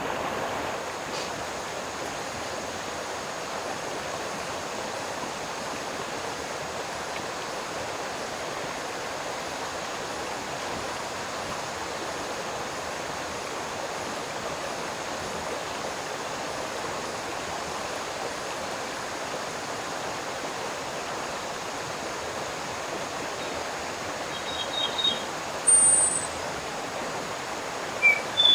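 Steady rush of flowing water, like a stream running in a valley. A few short, high bird chirps come in near the end.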